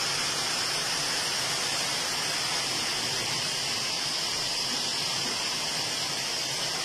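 Heavy rain pouring down in a storm: a steady, even hiss with no let-up.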